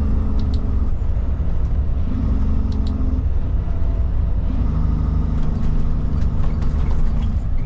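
Cab interior noise of a Kenworth cabover road train on the highway: the Cummins diesel drones steadily under load, its note shifting a couple of times, with light cab rattles and clicks over it.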